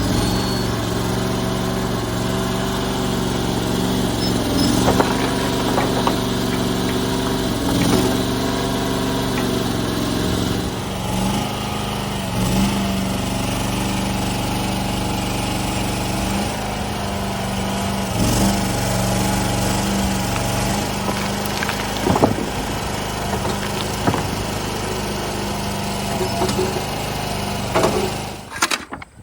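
Engine running steadily under load, with a few sharp knocks and clatters over it, cutting off suddenly near the end.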